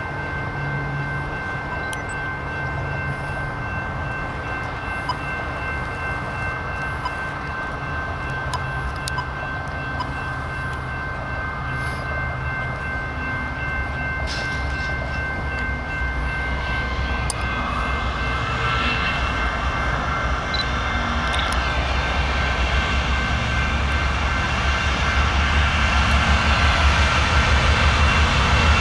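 Diesel locomotives leading a BNSF double-stack container train approach. Their low engine rumble grows steadily louder through the second half.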